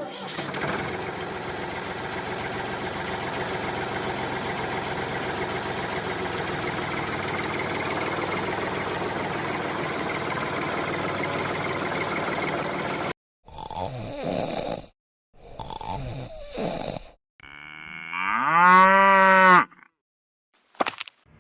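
A small motor runs steadily for about thirteen seconds and cuts off suddenly. Then comes a series of cow moos, the loudest a long moo that rises and falls near the end.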